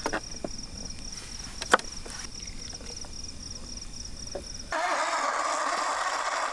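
Crickets chirping with a few sharp clicks, then about three-quarters of the way through a battery-powered portable blender switches on and runs steadily, blending chopped tomatoes.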